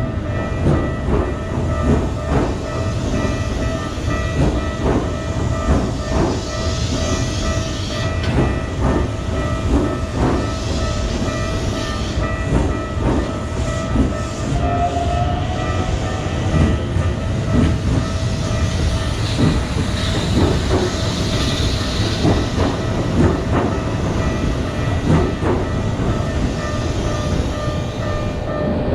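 Electric train running past, its wheels clattering over rail joints in many sharp, uneven clicks over a continuous rumble, with a steady tone running underneath.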